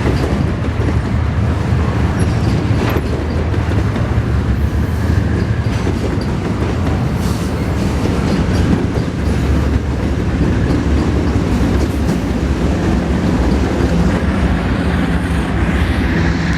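Freight train of pulp wagons rolling past, its wheels clicking over rail joints over a steady low rumble.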